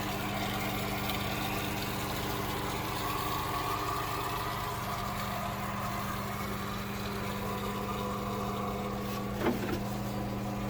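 Steady mechanical hum of a motor or engine running in a boat's engine room, with one short knock about nine and a half seconds in.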